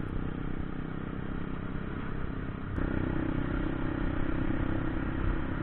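Motorcycle engine running under way while riding, with rumbling wind on the microphone. It gets a little louder about three seconds in.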